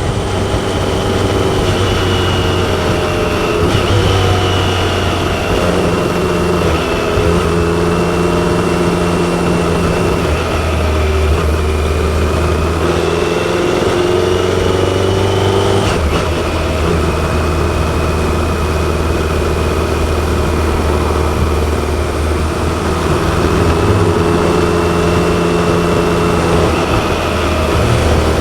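BMW K1100LT motorcycle's inline-four engine running under way, its pitch rising and falling with the throttle, with a sudden change in note about sixteen seconds in.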